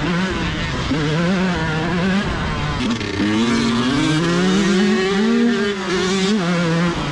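125cc two-stroke dirt bike engine revving as the bike is ridden, the pitch dropping and climbing again and again with throttle changes, with one longer climb a few seconds in.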